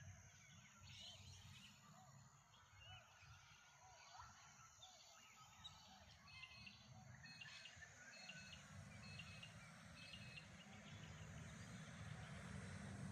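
Faint morning birdsong from several small birds chirping, with one bird repeating the same short call about once a second in the middle stretch, over a low steady rumble. Near the end a broad rushing noise grows louder.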